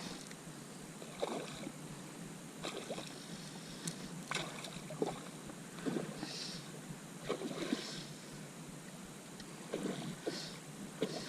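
Water splashing and slapping in a string of short, irregular splashes over a steady hiss.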